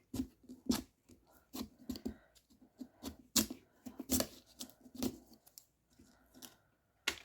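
A pumpkin carving tool cutting and scraping into pumpkin flesh in short, irregular strokes, about a dozen sharp cuts and scrapes with pauses between.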